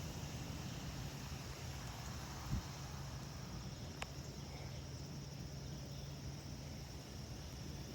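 Crickets chirping steadily in a high, even band over a low steady rumble, with a single thump about two and a half seconds in and a sharp click about four seconds in.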